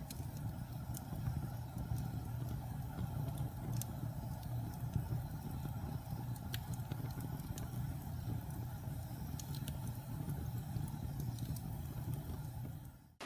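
Wood fire burning in a fireplace: a steady low rumble with scattered sharp crackles and pops. Near the end the sound drops out abruptly.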